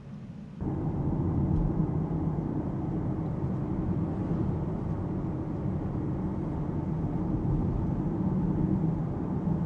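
Road and tyre rumble with wind noise inside the cabin of an Alpine A390 electric car on the move, a steady low drone with no engine note. It jumps louder suddenly under a second in.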